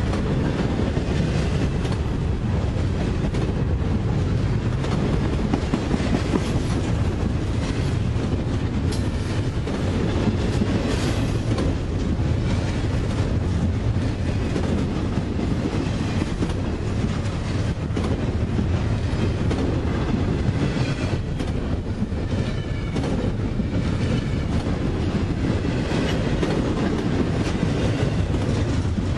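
Double-stack intermodal freight train rolling past: a steady rumble of loaded well cars on the rails, with wheels clicking over rail joints now and then.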